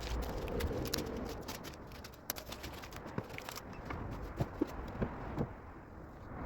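Scattered sharp clicks and light knocks over a rustling background, a few louder knocks in the second half.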